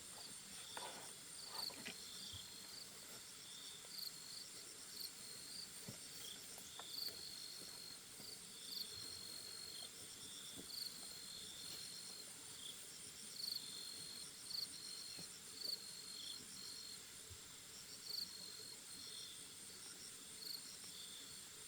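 Faint chorus of forest insects: a steady high chirring with short, high-pitched chirps repeating about once a second.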